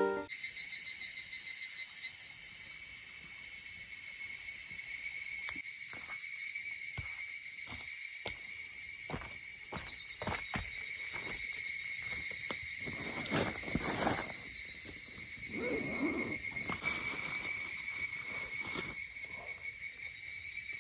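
Insects, crickets among them, trilling steadily in several high pulsing layers. Scattered sharp clicks and knocks and some brief rustling are mixed in, louder in the middle.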